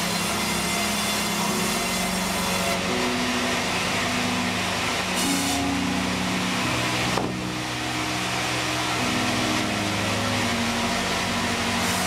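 Large vertical band sawmill running and cutting through a log, with a steady machine hum under the hiss of the blade in the wood. The cutting hiss drops off suddenly about seven seconds in, then partly returns.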